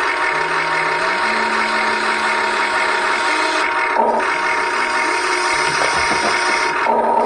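Electric motors and gearboxes of a Huina 1580 R/C excavator whirring steadily while it digs sand, the pitch stepping up and down as different movements are driven, with two brief breaks about four and seven seconds in.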